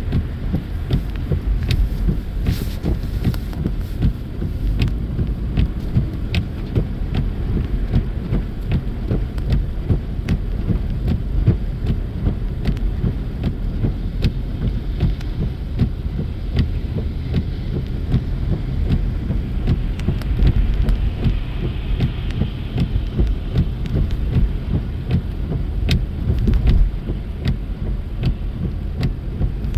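Steady low road and engine rumble inside a moving car's cabin, driving on a snowy road, with faint scattered ticks.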